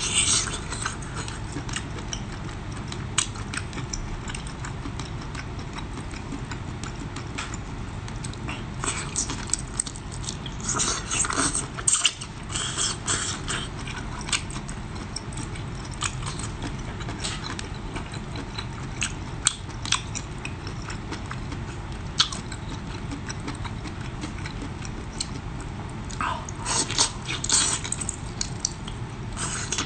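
Close-miked eating: chewing and mouth smacking with scattered sharp clicks, and two longer spells of wet, crackly smacking, one about a third of the way in and one near the end, over a steady low hum.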